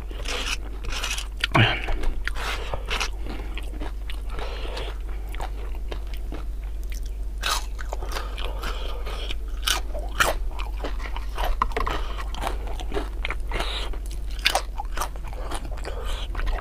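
Chewing and crunching of crispy fried tempeh dipped in sambal: a run of irregular sharp crunches with chewing in between.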